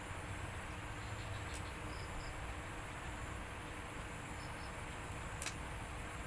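Quiet eating of boiled crab: two sharp clicks of shell or teeth, one about a second and a half in and one near the end, over a steady high-pitched drone and low hum.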